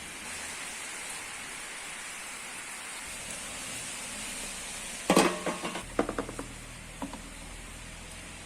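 Steady rain hissing, with a sudden clatter of kitchenware about five seconds in: several ringing knocks in quick succession, then a few lighter ones.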